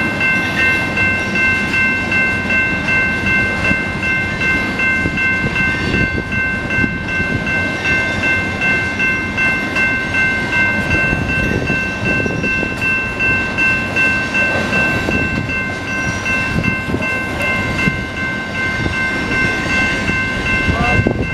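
A freight train of tank cars rolling steadily past at close range, its wheels rumbling and clattering over the rails. A steady high-pitched ringing tone is held throughout over the rumble.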